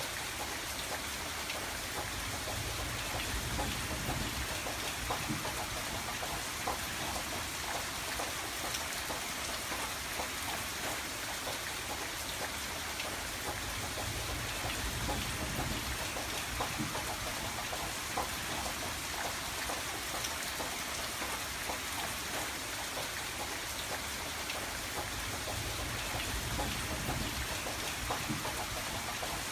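Steady rain pattering on window glass, with many small drop ticks. A soft low rumble swells and fades a few times underneath.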